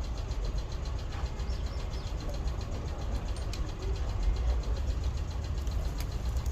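Isuzu 4JB1 four-cylinder diesel engine idling steadily.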